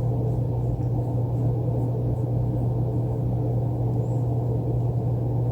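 A steady low hum with a rumbling undertone, unchanging throughout.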